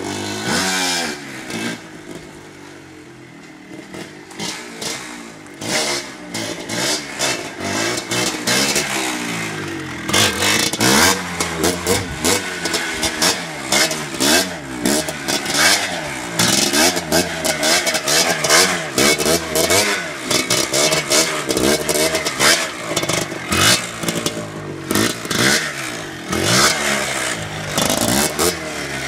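Motorcycle engine revving up and down over and over as the rider holds the bike in a wheelie, with throttle blips coming in quick succession. It runs at lower revs for the first several seconds, then gets louder and busier from about ten seconds in.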